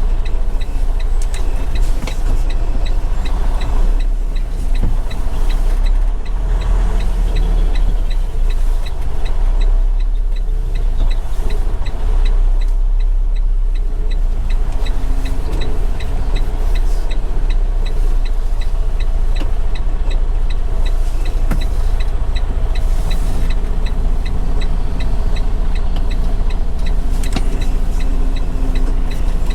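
Semi-truck tractor heard from inside the cab while driving slowly without a trailer: a steady deep engine rumble, with a light ticking repeating evenly several times a second.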